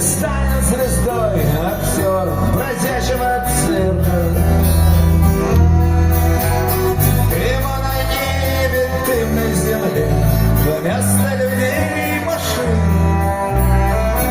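Live rock band playing an instrumental passage between sung lines: bass and drums under a wavering lead melody line.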